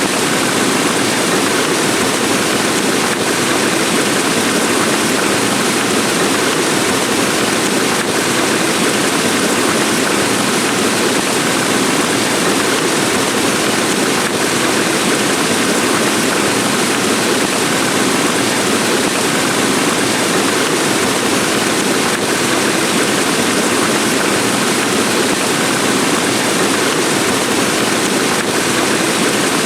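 Heavy rain falling: a loud, steady, unbroken hiss.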